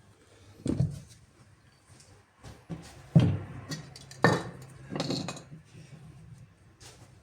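Metal clinking and knocking during a repair: about five separate strikes, the loudest about three seconds in, over a low hum.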